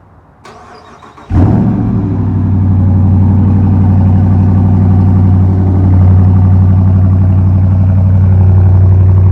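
2017 Dodge Charger Daytona's 5.7-litre HEMI V8 cranked by the starter and catching about a second in with a loud flare, then settling into a steady, deep idle. Its exhaust has the mid-mufflers removed, with the resonators still fitted.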